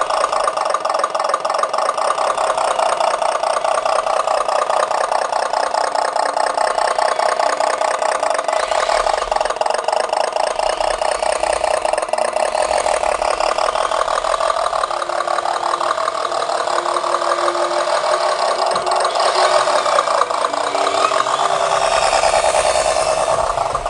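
A motor running steadily with a fast, even buzz, its pitch shifting a little in the second half.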